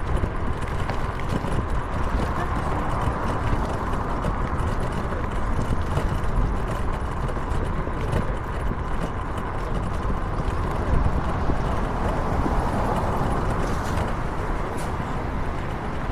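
Steady rushing road and wind noise of riding along a road, with no distinct events standing out.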